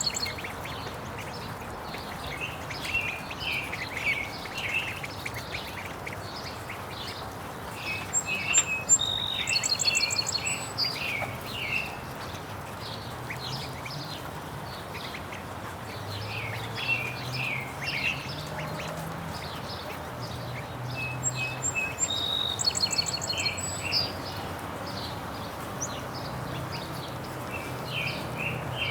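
Ducks quacking among many short, high chirps and peeps from birds, with a few quick trilled runs.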